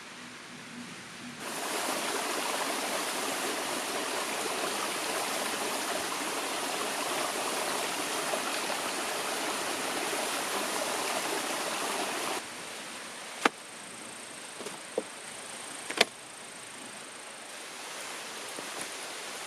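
Steady rushing of flowing water that cuts in about a second in and cuts off abruptly after about eleven seconds. It gives way to quieter outdoor ambience with a few sharp clicks.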